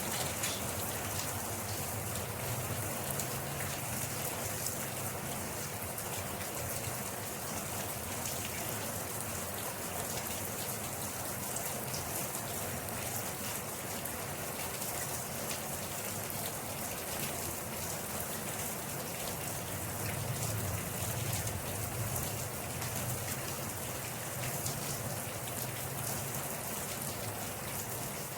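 Steady rain falling, a dense hiss of drops pattering on a surface, with a low rumble that swells briefly near the start and again about two-thirds of the way through.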